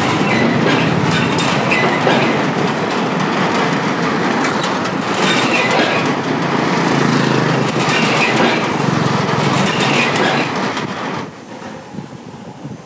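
Motorbikes crossing the Cẩm Kim steel bridge: a loud, continuous rattling clatter from the bridge under their wheels, mixed with engine noise. It drops off sharply about eleven seconds in.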